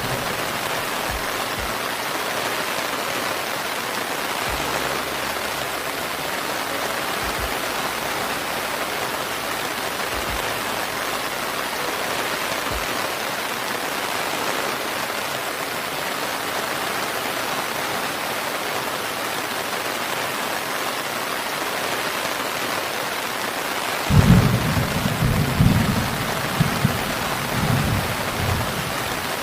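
Steady, even rain falling, with a low roll of thunder rumbling in about four-fifths of the way through for several seconds.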